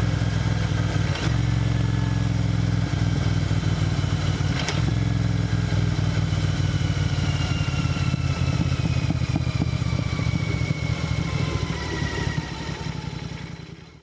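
Royal Enfield GT 650's 648 cc parallel-twin engine and exhaust running steadily at cruising speed on the highway, with a thin whine sliding down in pitch over the second half. The sound fades out over the last couple of seconds.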